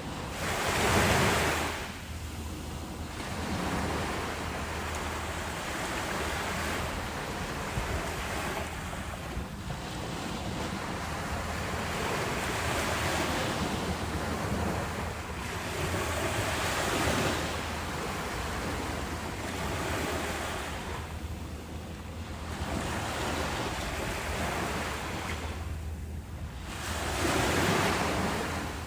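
Ocean waves breaking and washing up the shore, a steady hiss of surf that swells and recedes every few seconds. The biggest surges come about a second in and near the end.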